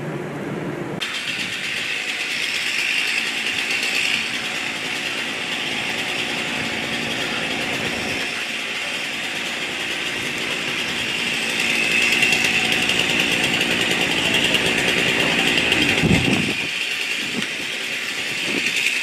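A motor running steadily, setting in abruptly about a second in, with a brief low rumble near the end.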